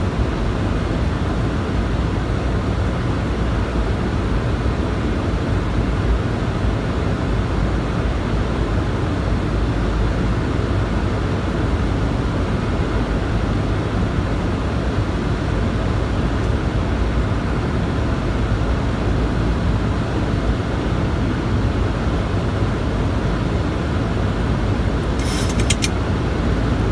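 Steady cockpit noise of an airliner on approach to landing: airflow and engine noise as an even, low-heavy rush. A few short clicks come near the end.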